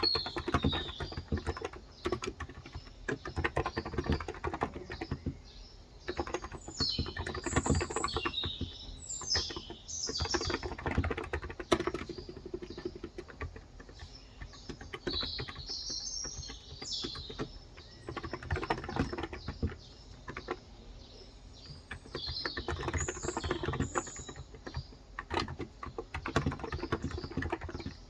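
Typing on a Cox Endeavor electro-capacitive (contactless) 35 g tenkeyless keyboard: keystrokes come in quick runs with short pauses. Small birds chirp in short bursts several times in the background.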